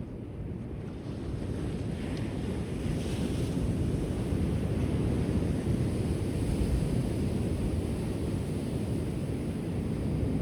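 Ocean surf on a shore: a steady low rush of waves that swells over the first few seconds, with a brief hiss of washing water about two to three seconds in.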